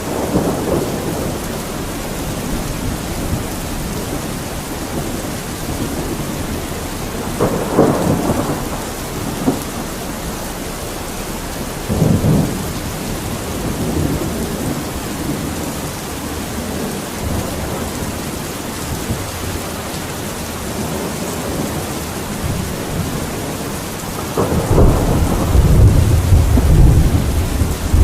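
Steady rain falling as an even hiss, with low rumbles swelling up three times: briefly about a third of the way in and again a little later, then a longer, stronger rumble near the end.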